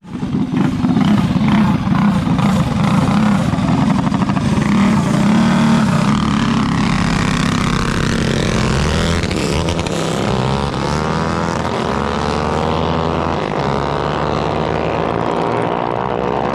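Small mini bike engines running loudly, starting abruptly. Through the second half the engine pitch rises and falls as they rev.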